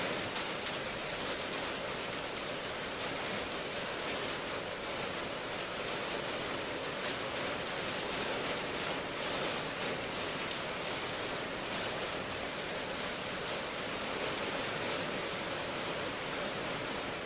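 Steady rain ambience: an even hiss of rainfall with a faint patter of drops.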